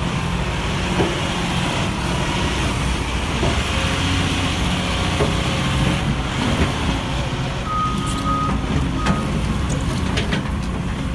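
Steady vehicle engine and road noise, with a construction vehicle's reversing alarm beeping near the end: one long beep, then a short one.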